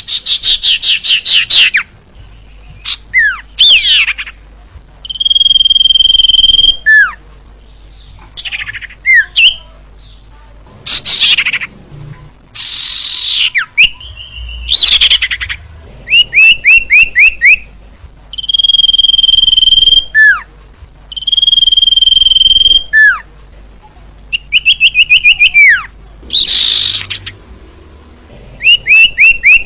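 Common iora (cipoh) singing loudly in repeated phrases separated by short pauses: fast rattling trills of falling notes, long steady whistled notes, and quick downward slurs.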